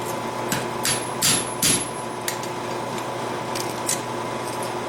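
Hammer tapping on steel: about four light blows in the first two seconds, a couple of them leaving a high metallic ring, then two fainter clicks near the end.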